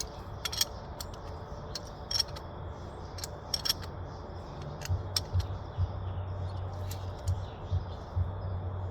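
Small metal parts and hand tools clicking and clinking as they are handled, in scattered sharp taps over a faint low rumble.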